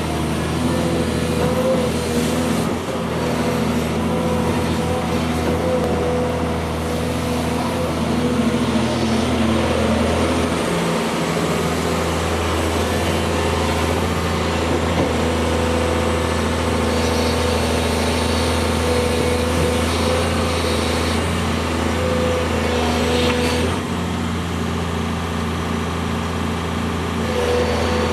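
Volvo EC210 excavator's diesel engine running steadily while it works, with a whining tone that comes and goes.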